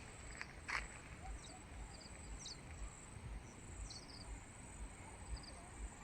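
Insects, crickets among them, keeping up a steady, faint, very high-pitched trill, with a few short higher chirps through the middle. A couple of light clicks come near the start.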